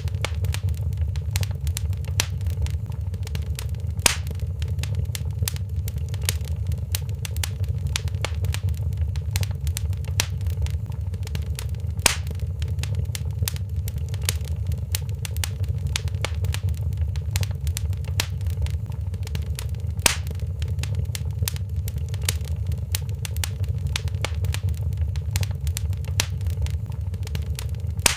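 Wood fire in a fireplace crackling steadily, with many small pops over a low rumble and three louder snaps, evenly spaced about eight seconds apart.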